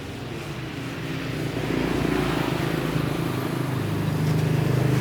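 Car engine running steadily, growing louder about a second and a half in.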